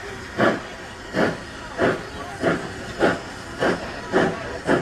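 Steam locomotive exhaust chuffing in a steady rhythm of hissing beats, about seven of them, coming gradually faster as the engine picks up speed.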